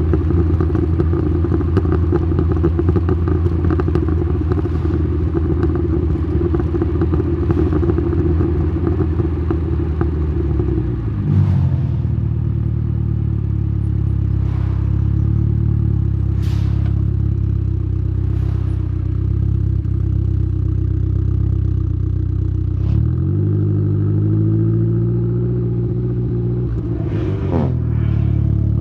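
Exhaust note of a tuned Saab 9-3's B204 turbocharged four-cylinder, with a TD04-19T turbo, 3-inch downpipe and Simons muffler, heard close at the exhaust while driving. It runs at steady revs, then drops to a lower pitch about eleven seconds in, and the revs glide up and down again near the end. Brief clicks are scattered through.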